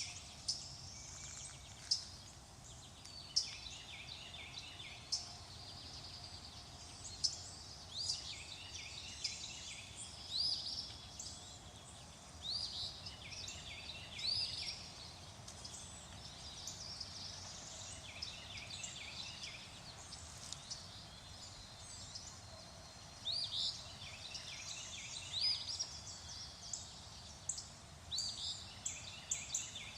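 Several birds singing and calling, with short rising whistles and quick runs of repeated notes, over a faint steady background noise.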